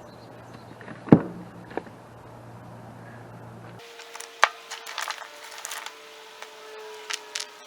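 Rocks knocking against each other as they are set into a stack: a few sharp, separate clacks, the loudest about a second in. From about the middle the background changes suddenly to a faint steady tone, with more scattered clicks and knocks.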